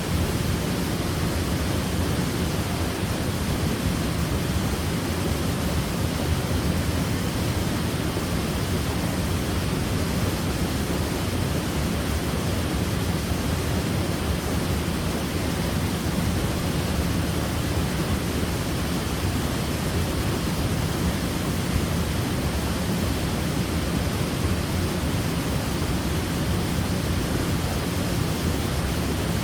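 Waterfall rushing: a steady, unbroken roar of falling water, heaviest in the low range.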